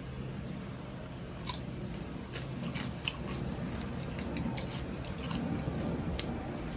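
Chewing and crunching on crispy deep-fried pork knuckle (crispy pata), with a scattering of sharp crunches over a low steady hum.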